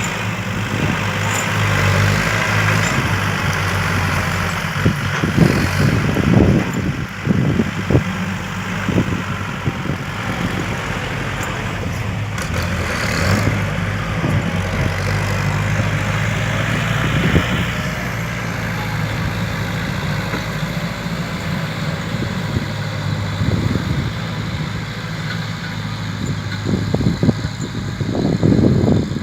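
Kubota L4708 tractor's diesel engine running steadily while the tractor pushes and grades soil, with occasional knocks and clunks, a cluster a few seconds in and more near the end. The engine's upper noise eases about two-thirds of the way through.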